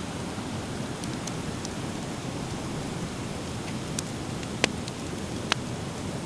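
Driftwood fire crackling in a metal fire pit: a few faint ticks, then three sharp pops in the last half, the middle one loudest, over a steady rushing background noise.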